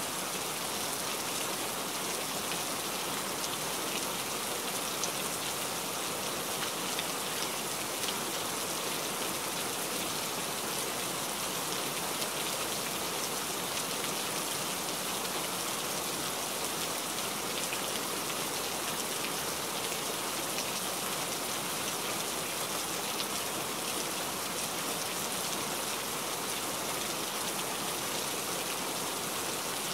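Steady rain, an even hiss with faint ticks of single drops scattered through it.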